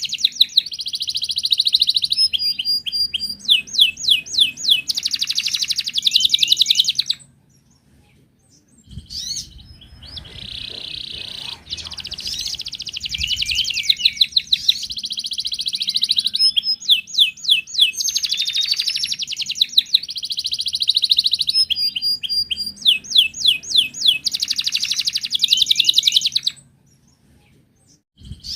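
Wild canary singing long phrases of rapid trills and warbled notes, pausing briefly about seven seconds in and again near the end.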